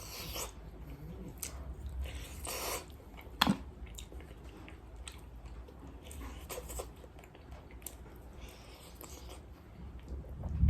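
A person chewing and biting KFC-style fried chicken close to the microphone: scattered wet smacks and crunches, with one sharp click about three and a half seconds in.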